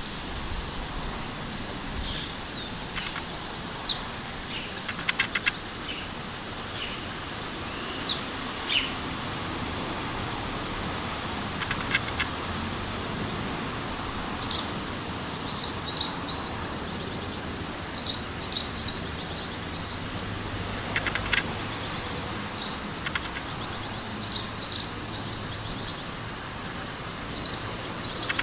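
House sparrow chirping: short, high, repeated chirps, scattered at first and then in quick runs of three to five notes, over a steady background noise.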